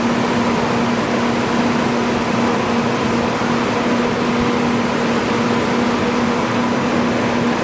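1998 BMW 540i's 4.4-litre V8 idling steadily with a steady hum. It now runs evenly, with injector 7 firing properly after its connector fault was fixed, so the cylinder 7 misfire is gone.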